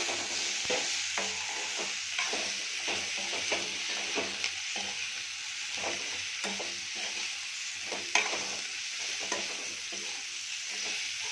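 Kundru (ivy gourd) strips sizzling steadily in hot oil in a kadhai while a steel spatula stirs and scrapes them through the spices, with scattered clicks of the spatula against the pan, the sharpest about eight seconds in.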